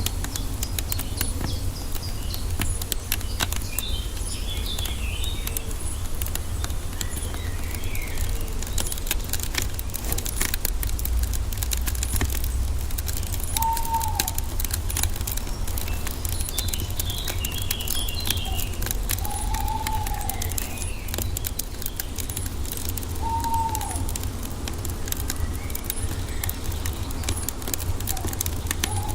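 A wood fire crackling with a steady low rumble, its snaps and pops coming thick and fast throughout. Forest birds chirp high over it, and in the second half one bird gives a short arched call about four times.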